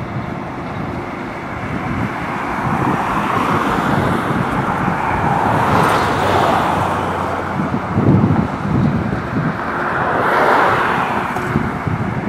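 A coal train's cars rolling past, their steel wheels running on the rails with a steady rumble. The noise swells about halfway through and again near the end.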